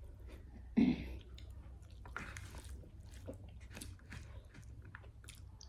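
Close-up chewing and biting: a person eating with their mouth near the microphone, a run of short wet and crunchy clicks, with one louder sudden mouth sound about a second in.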